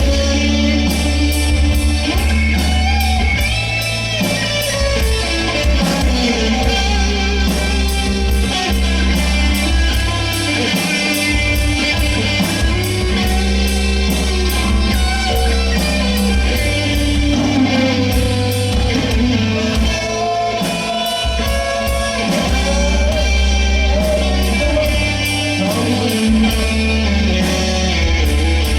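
Live rock band playing, with electric guitar, bass, a steady drum beat and singing.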